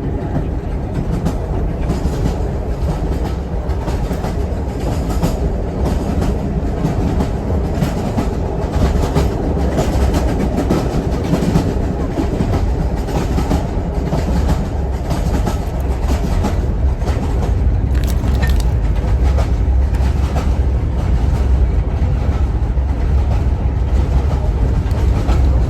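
Jacobite steam train running along the track: a steady low rumble with a continual irregular clatter of the wheels on the rails.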